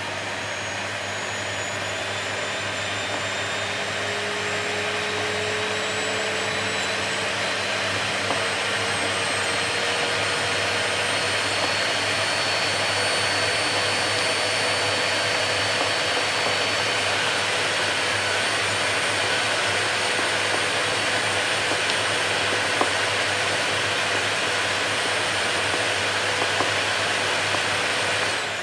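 Vacuum cleaner running steadily, a loud rushing noise with a motor whine that climbs slowly over the first several seconds and then holds. It is switched off at the very end, the whine starting to fall as the motor winds down.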